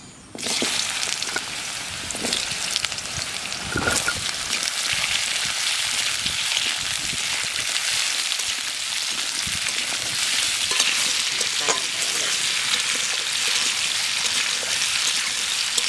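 Slices of raw papaya sizzling steadily in hot mustard oil in an aluminium kadai, the sizzle starting about half a second in as they go into the oil. A metal spatula scrapes and clicks against the pan now and then as they are stirred.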